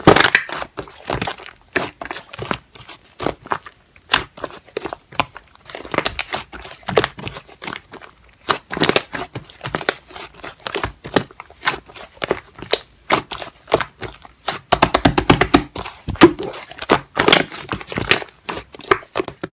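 Slime being squeezed, pressed and stretched by hand, giving dense runs of small crackling pops and clicks, busiest around the middle and towards the end.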